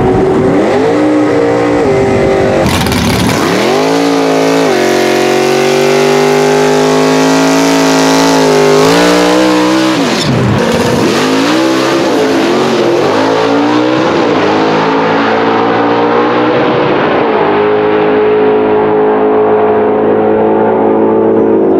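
Drag car's engine revving hard through a burnout, with the rear tyres spinning: it climbs and holds a high note for several seconds, drops, revs up and down, then settles into a steady lower note near the end.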